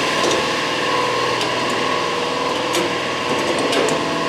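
Steady hum of a small motor running, with a few light clicks.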